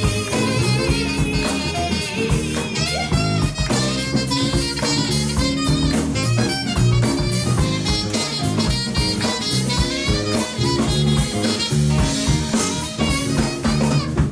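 Live band playing an upbeat blues-swing number: drum kit with cymbal strikes, a bass line, and a saxophone and guitar carrying the melody.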